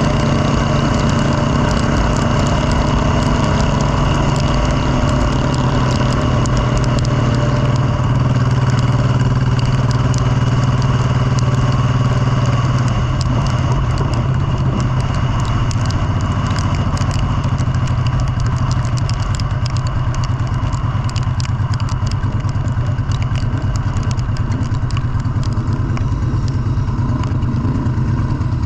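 Motorcycle engine running steadily, with many scattered clicks and rattles.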